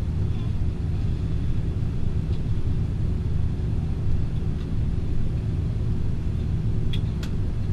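Cabin noise of an Airbus A320 on the ground just after landing: a steady low rumble of the engines and wheels as it taxis, with a faint steady hum in it.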